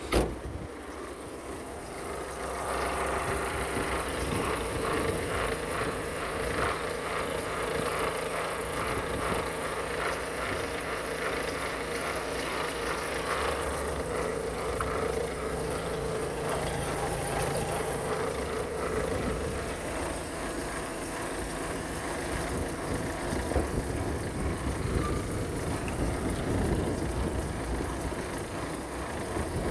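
Citroën C4 1.6 HDi (9HX) four-cylinder turbodiesel engine running on test, with a sharp knock at the very start. It grows louder about two seconds in and then runs steadily with a rapid, even rhythm.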